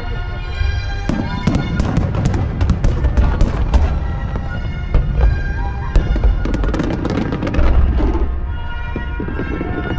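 Aerial fireworks bursting, with deep booms and rapid crackling over background music; the crackling thins out near the end.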